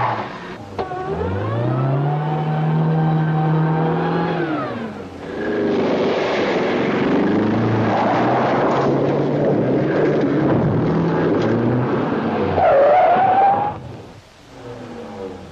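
Volvo car engine revving hard on a dirt road: the pitch climbs about a second in and holds high for a few seconds, then the engine runs on unevenly under load. Near the end a brief rising tyre squeal, the loudest sound, before the engine noise falls away.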